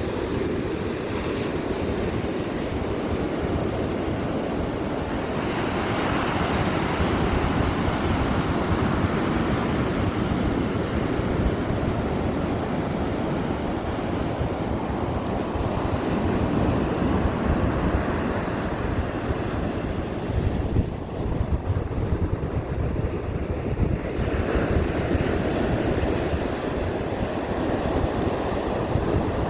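Ocean surf washing continuously onto the shore, with wind blowing across the microphone. The wash swells noticeably about six seconds in and again near the end, with a short lull between.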